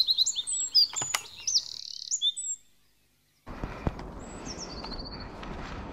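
Small songbirds singing: quick repeated high chirps for the first two and a half seconds, then the sound cuts out for about a second. After the gap an even noisy outdoor background returns, with a short trill of descending high notes about a second later.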